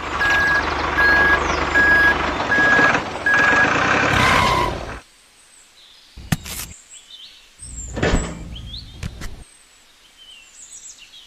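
Reversing beeper sounding a steady beep about twice a second over a running engine, stopping after about four seconds. A few separate knocks follow.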